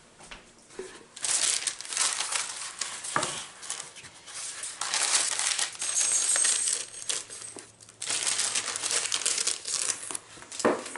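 Paper rustling and crinkling in three stretches of about two seconds each, as a paper lampshade pattern is handled and fitted.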